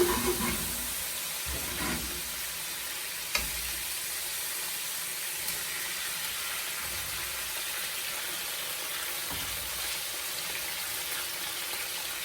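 Chicken pieces sizzling steadily as they fry in oil in a pan, with a few brief knocks in the first few seconds, the sharpest a little over three seconds in.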